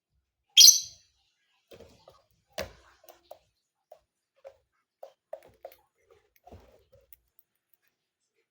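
Lovebird giving one short, shrill call about half a second in, followed by a string of faint, short soft sounds and a sharp click.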